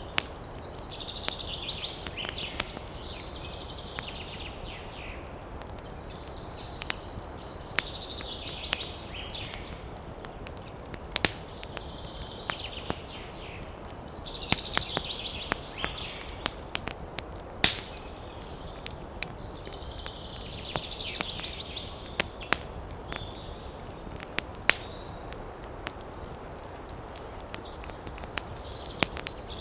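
Campfire crackling, with frequent sharp pops over a steady hiss. A high, rough animal call of two or three seconds repeats about every six seconds.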